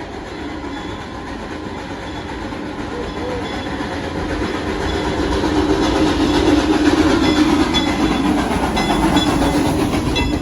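Frisco Silver Dollar Line excursion train (engine #504) running along the track: a steady rolling rumble that grows louder toward the middle, with a few rail clicks near the end.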